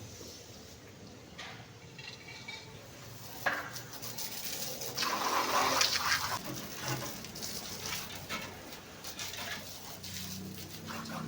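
Water splashing and pouring on a truck being washed, louder for a couple of seconds around the middle, with a sharp knock a little before.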